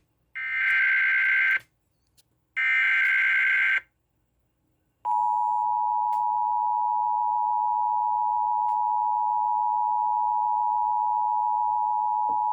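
Emergency Alert System signal for a severe thunderstorm warning: two short bursts of screechy digital header data about a second apart, then the steady two-tone attention signal sounding for about eight seconds.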